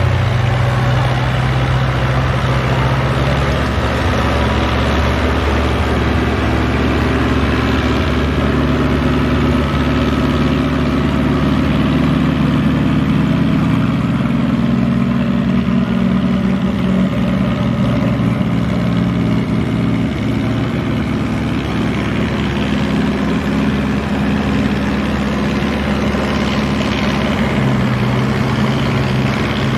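Ford 7000 tractor's diesel engine running hard under load through a tractor pull, its engine note shifting in pitch a few seconds in and again near the end.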